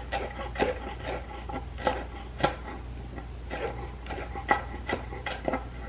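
Kitchen knife cutting pieces of red onion on a cutting board: about ten uneven knife strikes on the board, with slicing scrapes between them.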